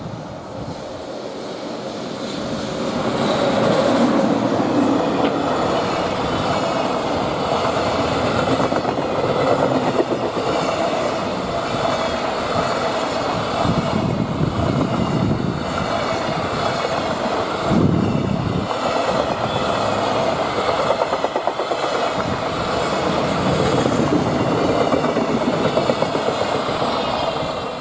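Freight train passing, its wagon wheels clattering over the rail joints in a continuous clickety-clack. The sound builds over the first few seconds as the train comes in, then stays loud and steady.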